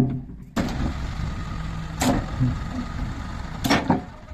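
Diesel engine of a JCB 3DX backhoe loader running steadily, with two sharp metallic knocks about a second and a half apart.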